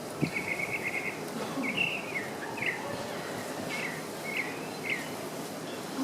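Tropical mockingbird singing: a short rapid trill, then a string of separate short slurred whistled notes, some rising and some falling, over a steady background hiss.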